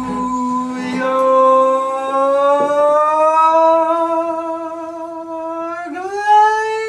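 A singer holding one long sustained note over the band's acoustic accompaniment, the pitch drifting slowly upward and then sliding up a step near the end.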